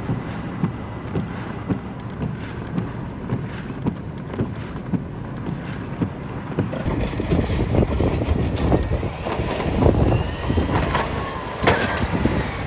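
Strong blizzard wind buffeting the microphone in irregular gusts, with a rumbling low roar and a hissing layer. About seven seconds in it gets louder and hissier.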